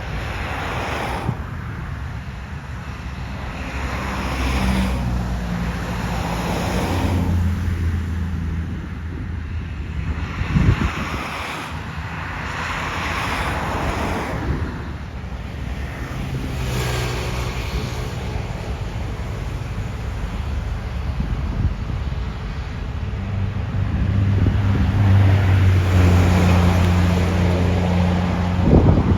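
Road traffic passing one vehicle after another, each a swell of tyre and engine noise lasting a few seconds, with wind buffeting the microphone. A heavier vehicle's low engine drone builds up twice, about a third of the way in and again near the end, and a sharp knock is heard twice.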